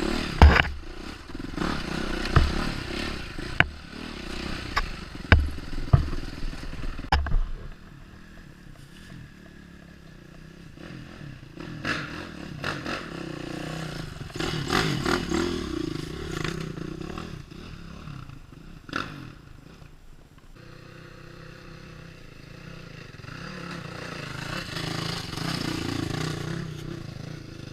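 Off-road motorcycle engine running and revving on a rough trail, with a series of sharp knocks and thumps over the first seven seconds. After that the engine rises and falls in pitch, swelling again near the end.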